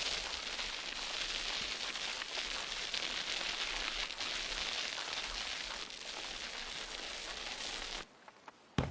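A steady hiss that cuts off suddenly about eight seconds in.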